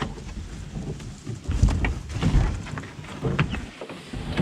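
Wind buffeting the microphone in uneven low gusts, with a few light knocks.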